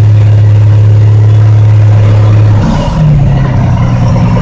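Log truck's diesel engine working hard while climbing a muddy hill. The steady low note breaks off about two and a half seconds in and comes back at a higher pitch as the engine revs up.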